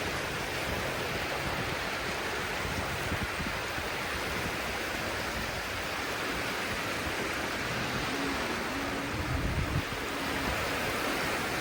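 Sea surf washing on the shore, a steady rush of waves. A faint low hum comes in about two-thirds of the way through.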